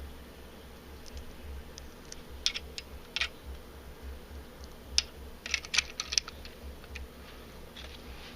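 LEGO plastic pieces being handled: scattered small clicks and taps, with a quick cluster of them just past the middle, over a steady low hum.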